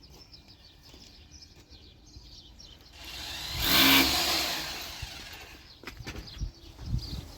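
A motor vehicle's engine passing by, swelling to a loud peak about four seconds in and then fading away as it drops in pitch. Faint bird chirps sound in the background.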